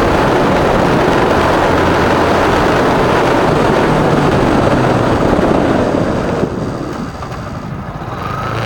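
Motorcycle riding through traffic: a loud rush of wind noise on the microphone mixed with the engine running, easing off and quieter about six and a half seconds in.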